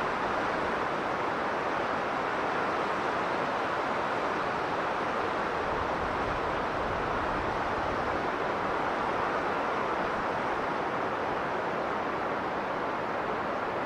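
Strong blizzard wind blowing steadily, a dense even rush that swells slightly and eases back without gusting breaks.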